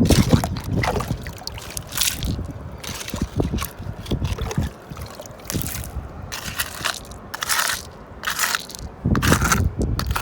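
Wet crunching, scraping and sloshing in irregular bursts, like wet gravel or mud being worked in water.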